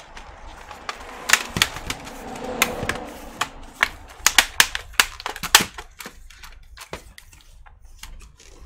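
Irregular clicks and taps of typing on a computer keyboard, quick and dense at first and sparser toward the end.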